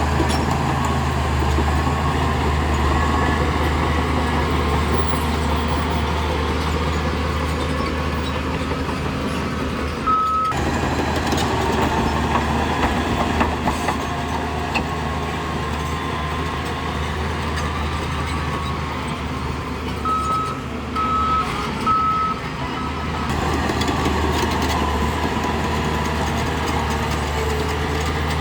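Heavy diesel earthmoving machine engine running steadily under work, with a reversing alarm beeping once about a third of the way in and three times in quick succession later on.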